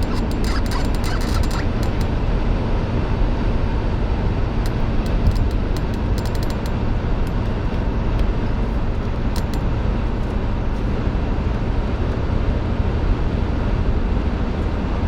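Steady road and engine noise of a moving vehicle, with scattered sharp ticks in the first couple of seconds and again around the middle.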